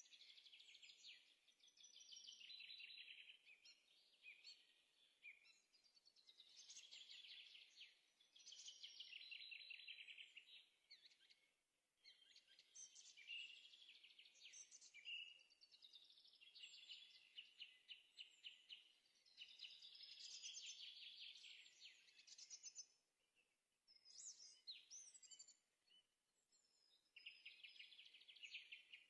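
A bird singing in long, rapid trilled phrases, broken by short pauses.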